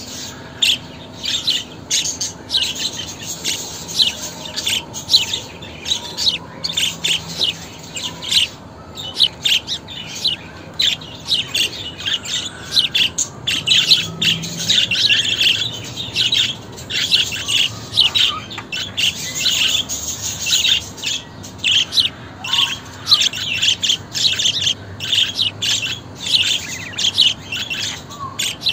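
Budgerigars chirping and warbling: a continuous stream of quick, high chirps with no pauses.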